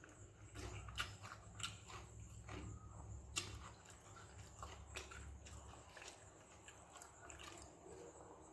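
Faint chewing and wet mouth smacks from a person eating soaked fermented rice with okra stir-fry: irregular sharp clicks about a second apart.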